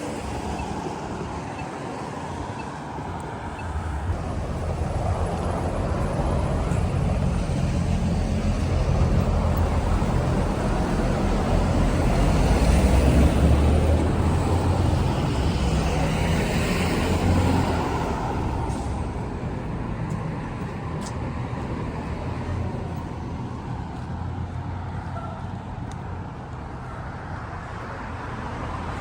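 A heavy vehicle's low engine rumble swells to a peak about halfway through and then slowly fades, as if passing by.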